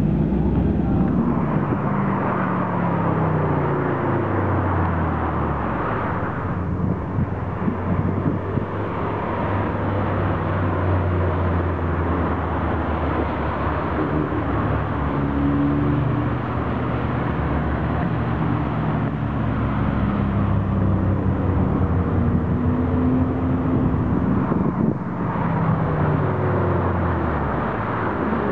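Spyker C8 Aileron's engine pulling away, its note falling, followed by cars driving past on a race circuit, their engine notes rising and falling.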